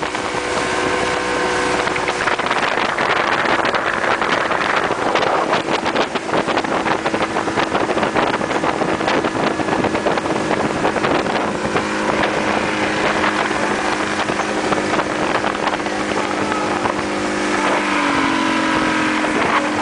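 Motorboat engine running steadily at speed, with rushing water and wind buffeting the microphone; the engine pitch rises near the end.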